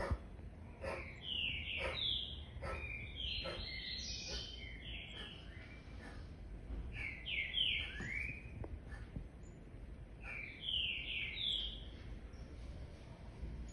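A bird chirping: runs of short, high chirps that slide downward, coming in bursts of several every few seconds.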